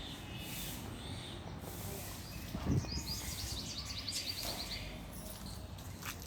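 A bird giving a fast, high trill of evenly spaced notes, about a dozen a second, lasting under two seconds from about three seconds in, over a steady background hiss. A soft thump comes just before the trill and is the loudest sound.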